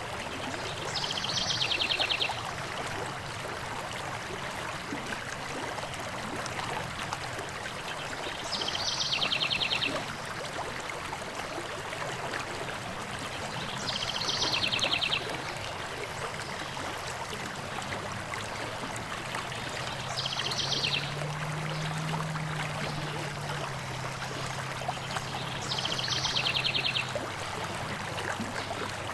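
A stream flowing steadily. A songbird repeats a short, fast, slightly descending trill five times, about every six seconds.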